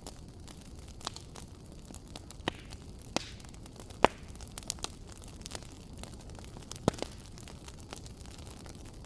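Wood fire in a fireplace crackling: a low steady rumble of flames with irregular sharp pops and snaps, the loudest pop about four seconds in and another pair near seven seconds.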